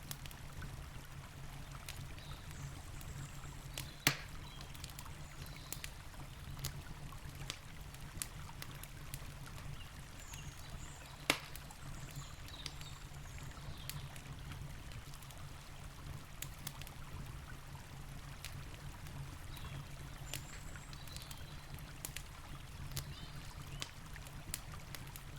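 Campfire crackling with scattered sharp pops over the steady rush of a river; two pops stand out, one about four seconds in and another about eleven seconds in.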